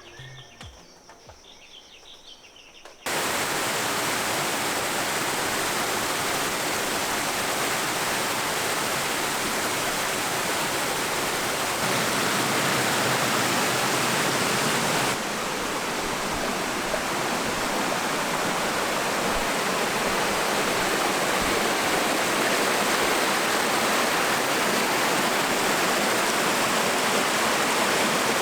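Waterfall: a steady rush of falling water that starts suddenly about three seconds in, after a quiet opening.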